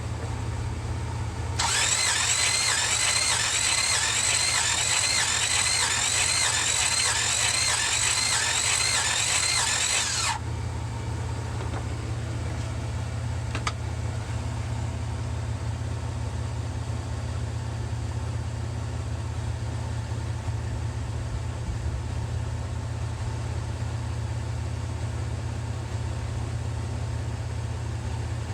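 The starter of a 1966 Buick Riviera GS's V8 cranking the engine for about nine seconds without it firing, a fast even rhythm of compression strokes, while the compression gauge is on the number 2 cylinder. A steady low hum runs under it and goes on after the cranking stops.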